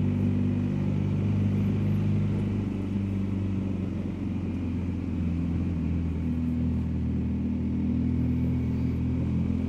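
BMW R1250GS Adventure's boxer-twin engine running steadily at cruising speed, with road noise, while the motorcycle is ridden two-up; the engine note shifts slightly about six seconds in.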